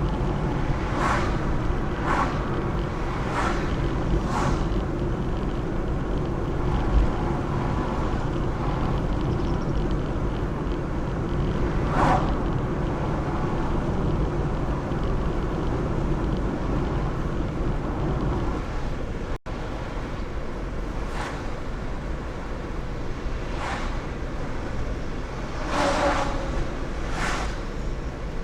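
Steady low outdoor rumble, typical of wind and distant traffic. Short sharp sounds break through it: four about a second apart at the start, and a few more near the end.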